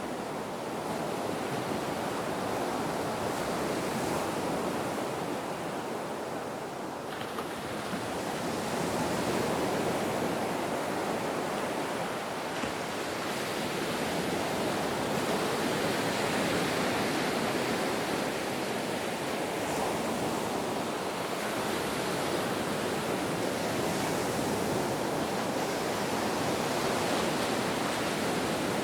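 Ocean surf: a continuous wash of breaking waves that swells and eases slowly, a little lower about six seconds in and fuller near ten and sixteen seconds.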